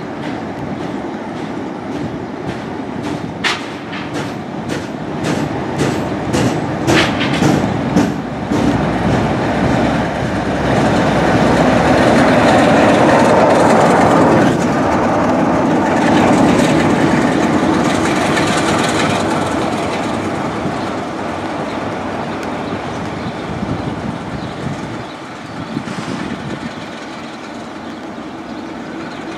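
A train passing: sharp clicks of its wheels over rail joints for the first eight seconds or so, then a louder rushing rumble about ten to twenty seconds in, fading away after.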